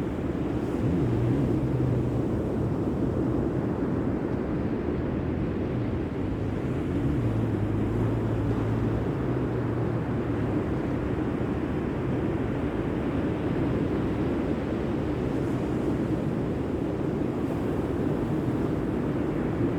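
Steady low rumble of sea surf and wind outdoors, with a low engine hum over it for the first half, fading out about halfway through.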